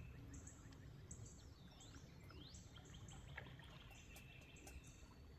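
Faint outdoor river ambience: a low steady rumble with short high chirps repeating throughout, and two rising sweeping calls about two seconds in.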